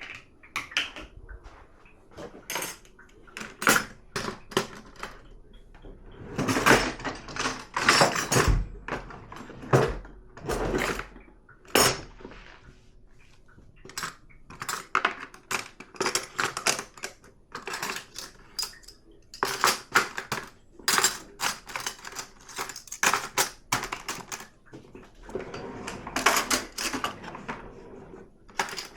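Dishes and cutlery clinking and clattering as they are handled in and out of a dishwasher's racks: a string of sharp knocks, busier in a few longer stretches.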